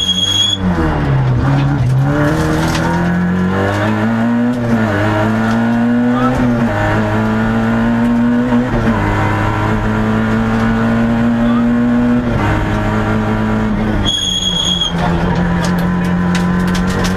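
Peugeot 106 XSi rally car's four-cylinder engine heard from inside the cabin, pulling hard up through the gears: the revs climb and drop at each change, then hold steady for several seconds. A high steady beep sounds briefly at the start and again near the end.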